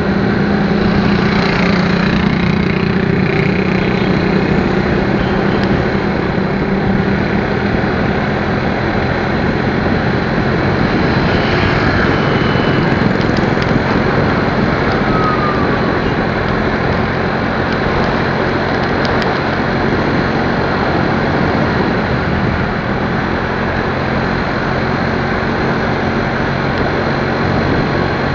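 Motorcycle on the move: a steady rush of wind and road noise with a low engine hum beneath it.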